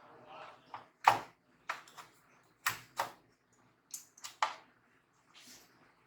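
Irregular sharp clicks and taps of laptop parts and screws being handled and fitted during reassembly, about eight in all, the loudest about a second in.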